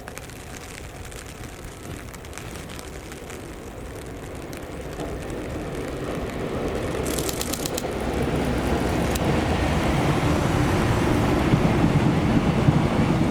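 A train approaching, its rumble growing steadily louder, with a brief run of rapid clicks about seven seconds in.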